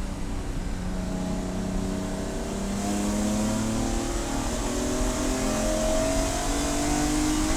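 Race car engine pulling under load, its pitch climbing slowly and steadily, with rushing noise growing from about three seconds in.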